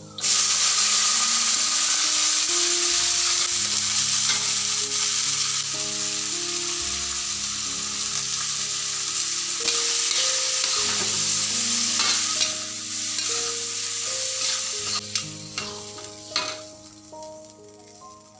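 Food sizzling in hot oil: the sizzle starts suddenly and loud, then eases off after about fifteen seconds into scattered pops and crackles. Soft background music plays underneath.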